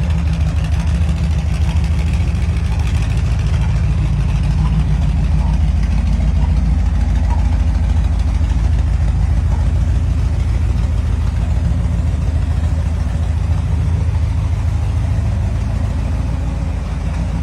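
A car engine idling steadily at a low, even pitch.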